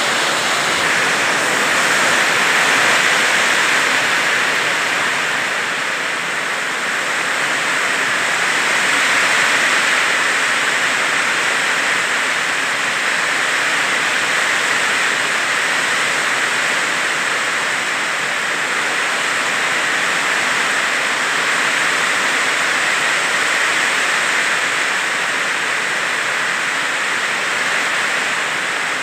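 Heavy tropical downpour: a dense, steady hiss of rain that swells and eases slightly now and then.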